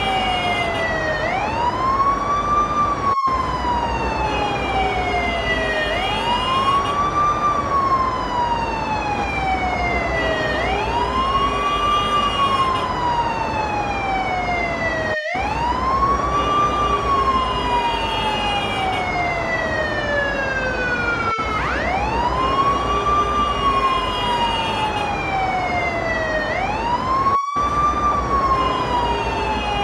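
Ambulance siren wailing: the pitch rises quickly, then falls slowly, over and over, about every four to five seconds. A few very brief gaps break the sound.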